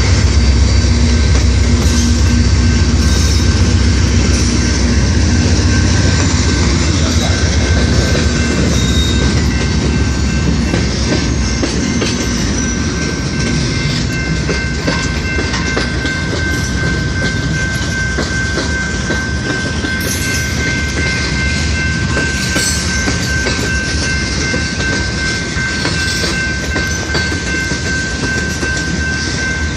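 Norfolk Southern mixed freight train rolling past, its car wheels clicking over the rail joints, with a thin, steady high tone running through. A deep rumble fades away over the first ten seconds or so.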